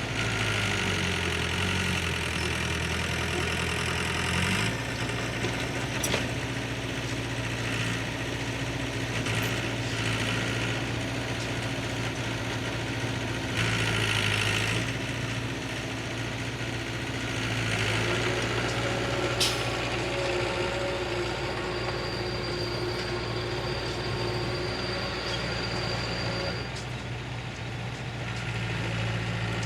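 Heavy diesel engine of earth-moving machinery running steadily, its pitch dropping over the first few seconds, with a couple of sharp clicks later on.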